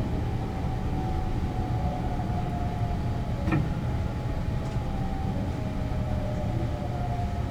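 Sunrise Express 285-series sleeper train running: a steady low rumble with a faint steady hum over it, and one sharp click about three and a half seconds in.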